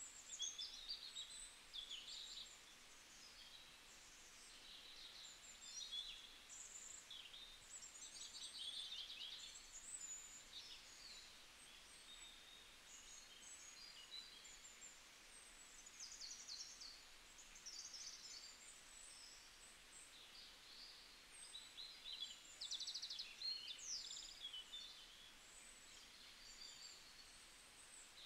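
Faint twittering of small songbirds: many quick high chirps and short trills, over a faint steady hiss.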